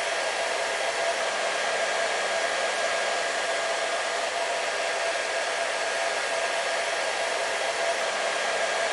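Hair dryer running continuously: a steady, even blowing rush with a constant whine from its fan motor.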